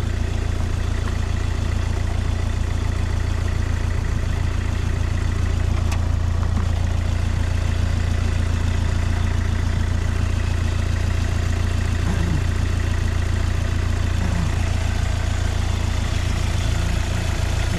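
Car engine idling steadily with a constant low hum, left running to warm up until the thermostat opens and the coolant circulates through the whole engine.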